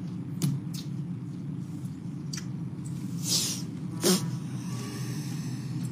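A man chewing food: several short wet smacks and clicks from the mouth, a short breathy hiss about three seconds in and a sharper smack about a second later, over a steady low background hum.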